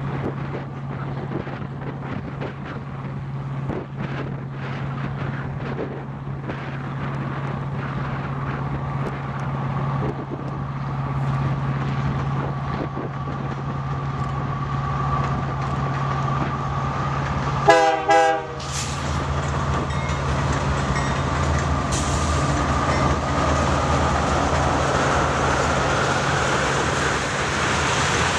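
Diesel-hauled BNSF freight train approaching and passing, with a steady low engine drone, a brief loud horn blast about two-thirds of the way through, then the rolling rumble and wheel noise of tank cars going by.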